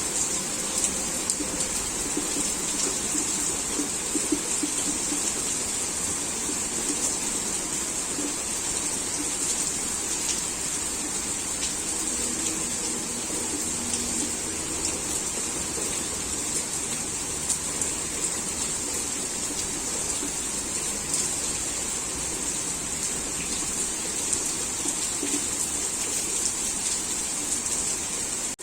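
Heavy rain falling steadily: an even, high-pitched hiss with many small drop ticks through it.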